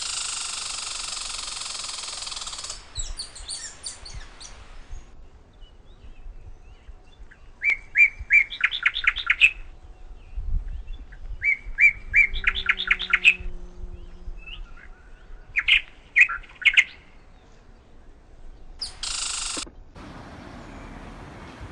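Songbirds singing outdoors. A dense, high twittering comes first; then short phrases of quick repeated chirps, about five notes a second, return every few seconds. A brief burst of twittering comes again shortly before the end.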